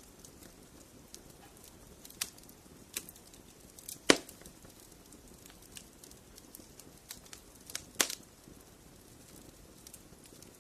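Fireplace fire crackling: scattered sharp pops and snaps over a soft hiss, the two loudest pops about four and eight seconds in.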